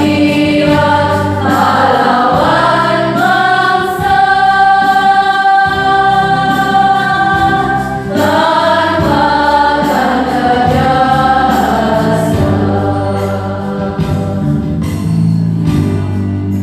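A choir singing, holding one long note about four seconds in and another near the middle, over a steady low backing.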